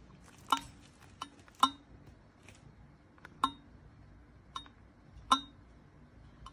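A handful of sharp, light clinks at irregular intervals, about six in all, each with a brief ring, over quiet room tone.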